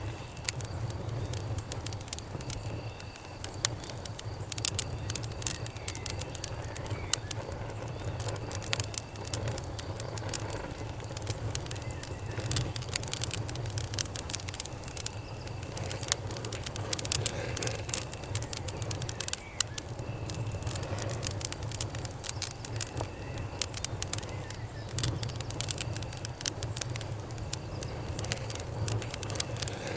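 Campfire crackling, with irregular sharp pops and snaps of burning wood over a steady low rumble. Crickets chirp in short repeated trills.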